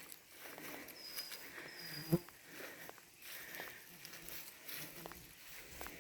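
Footsteps of someone walking on a woodland floor, with a few brief high, thin, level-pitched notes in the background and one louder short sound about two seconds in.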